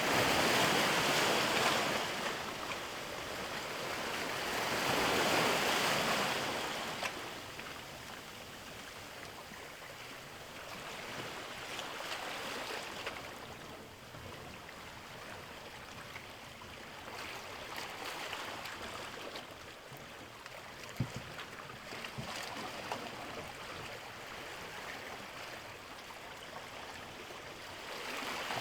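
Sea waves breaking and washing in: two louder surges in the first seven seconds, then a softer, rising and falling wash. A short tap about two-thirds of the way through.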